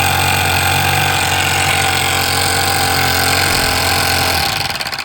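Toyan FS-S100 four-stroke glow-plug model engine running steadily, then cutting off near the end.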